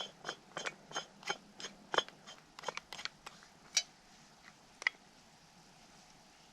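Small hard clicks from handling camp food-prep gear, about three a second, thinning out to a couple of single clicks about halfway through.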